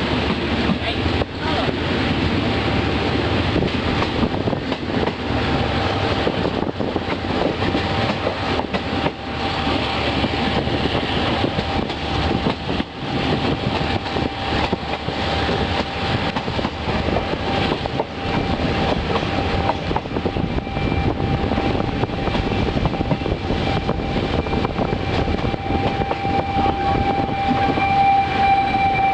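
Passenger train on the move: a steady, loud rumble and clatter of carriages on the rails, with a thin steady whine running through it that grows stronger near the end.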